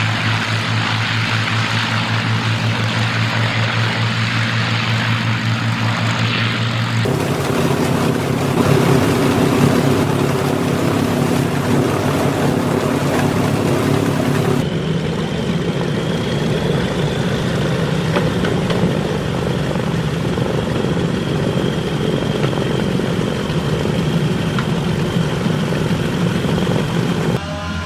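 Propeller aircraft piston engines running steadily, the recording changing abruptly to a different engine sound about 7 seconds in and again about 15 seconds in.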